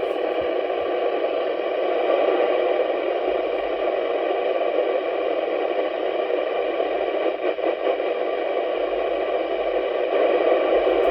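Radio receiver hiss heard through the set's speaker: a steady rush of static with no voice in it, limited to the radio's narrow audio band.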